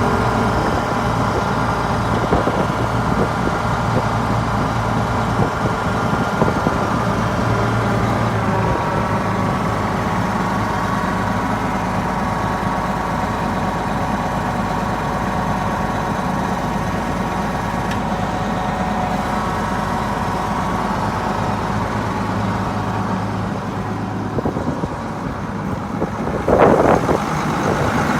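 1990 Case IH 7140 tractor's 8.3-litre six-cylinder turbo diesel running steadily, with a short louder sound near the end.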